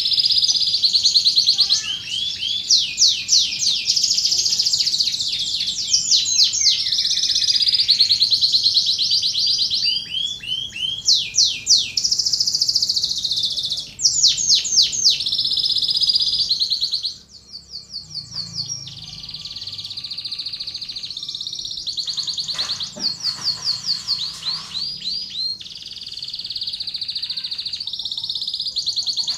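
Domestic canary singing a long, unbroken song of rapid trills and fast repeated sweeping notes. The song drops in level about two-thirds of the way through and carries on more quietly.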